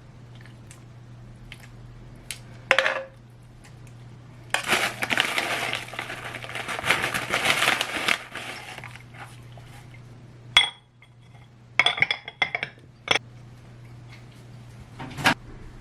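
Kitchen dishes and utensils clinking and knocking during cooking: scattered sharp clinks, with a denser few seconds of clattering noise in the middle and a faint steady hum underneath.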